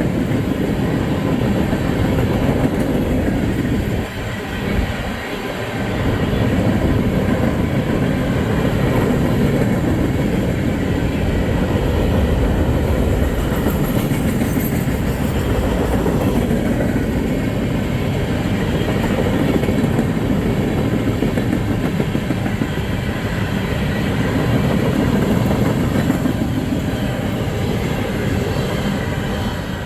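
Freight train cars rolling past at close range: a steady, loud rumble and rattle of steel wheels on the rails, with a brief dip about four seconds in.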